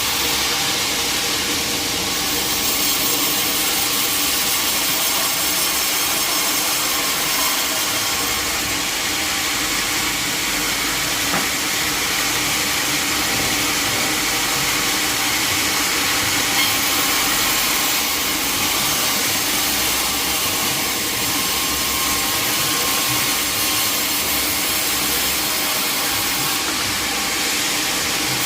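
Sawmill saw running through a log: a steady, continuous cutting noise with a constant machine hum under it.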